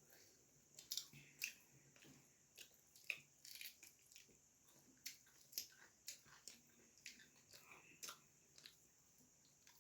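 Faint, close-up chewing of puri and vegetable curry: many short, irregular mouth clicks and smacks.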